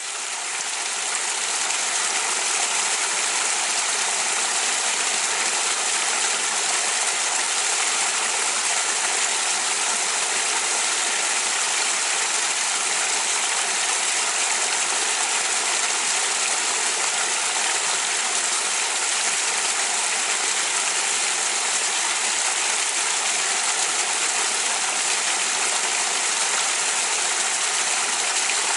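Small waterfall in a river, water pouring and splashing in a steady hiss. It fades in over the first second or two.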